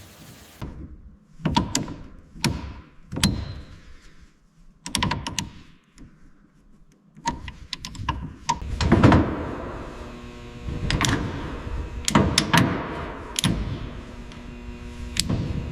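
A series of knocks and clunks, about a dozen spread unevenly, with a steady hum of several even tones starting about ten seconds in.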